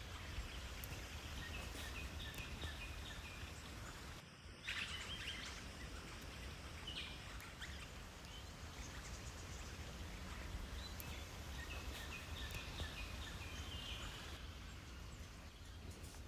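Faint birds calling: short chirps repeated again and again over a steady low outdoor rumble, with a brief dip about four seconds in.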